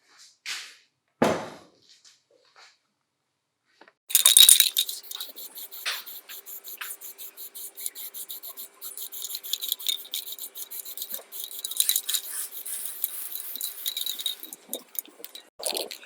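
A few separate knocks and clinks, then from about four seconds in a small motor running with a steady whine under rapid scraping and clicking.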